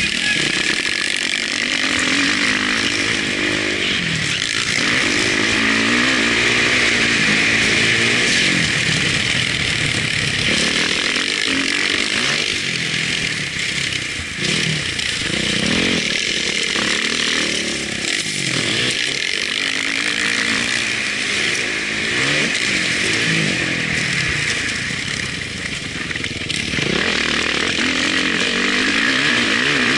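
Motocross bike engine revving hard and falling back over and over as the rider accelerates, shifts and brakes around the track, heard from a camera mounted on the bike or rider, with steady wind and track noise throughout.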